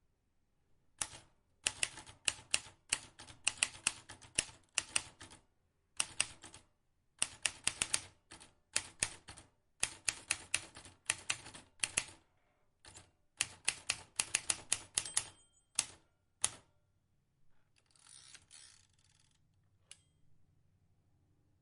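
Vintage manual typewriter keys struck in quick runs of sharp clicks, several a second, with short pauses between the runs. Near the end the typing stops and a softer rasping noise lasts about a second and a half.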